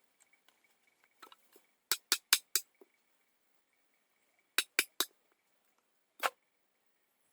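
A series of sharp knocks or clicks in quick groups: four in a row, then three, then a single one, over a faint steady high tone.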